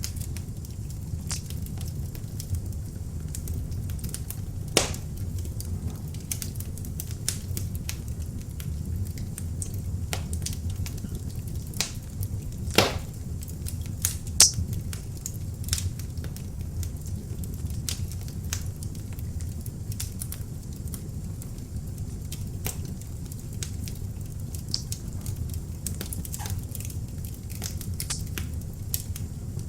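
Beech logs burning in an open fireplace: a steady low rush of flame with frequent sharp crackles, and a few louder pops about 5, 13 and 14.5 seconds in.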